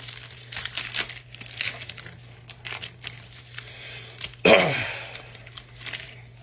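Crinkling and tearing of a trading-card pack wrapper with cards being handled, a run of short scratchy crackles. About four and a half seconds in, a brief loud vocal sound that falls in pitch.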